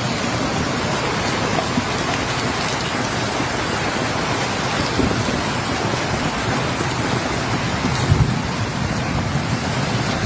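Heavy storm downpour, a dense steady hiss of rain pelting down, with a brief low rumble about eight seconds in.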